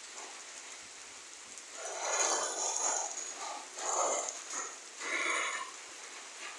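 Steady hiss of rain falling. Over it come three louder, short noises of unclear source, about two, four and five seconds in.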